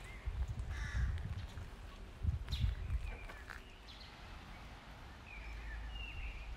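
Birds calling outdoors: a few short calls in the first three seconds, then thinner chirps near the end, over a low steady rumble.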